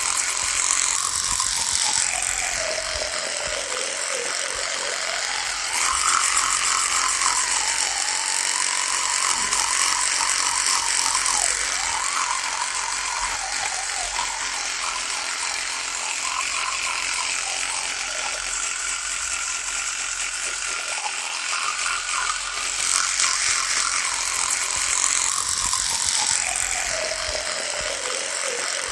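Electric toothbrush running with a continuous buzz, its motor pitch slowly sagging and rising again.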